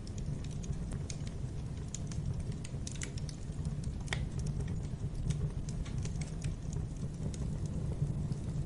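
Wood fire in a fireplace crackling: a steady low rumble of the flames under irregular small pops and snaps, with one sharper pop about four seconds in.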